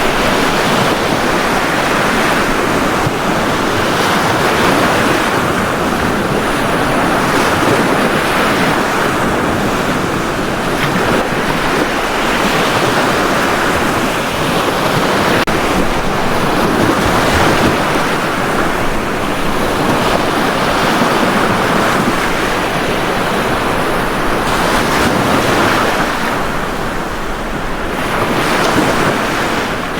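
Ocean surf breaking and washing on a beach in a steady, continuous wash that swells and eases every few seconds, with some wind on the microphone.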